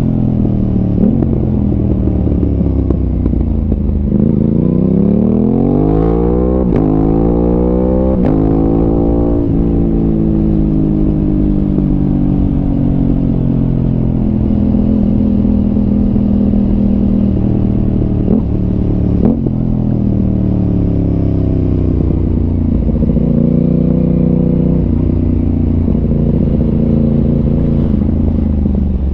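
Aprilia RS 660's parallel-twin engine through an SC Project exhaust, under way. It revs up strongly about four seconds in and is shifted up several times in quick succession, then holds a steady cruising note with a couple more shifts near the middle.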